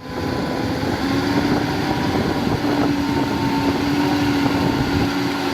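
Heavy construction machinery's diesel engine running steadily, with a constant hum tone in its note.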